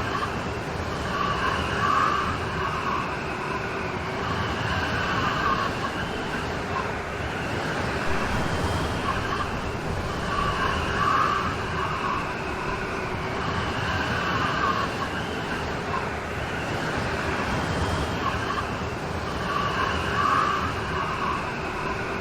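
Steady rainstorm noise, an even wash of falling rain, with a faint pattern that comes back about every nine seconds.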